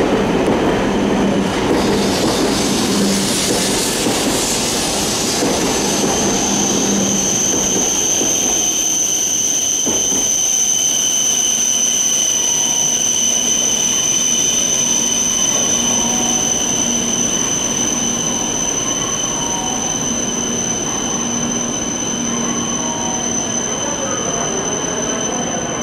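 E5 series Shinkansen train pulling into the platform and slowing, its rolling noise fading over the first several seconds. About five seconds in, a steady high-pitched squeal sets in and holds until near the end, with a single knock about ten seconds in.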